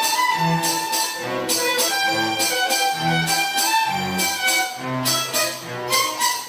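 Children's school orchestra playing, violins prominent over a moving bass line.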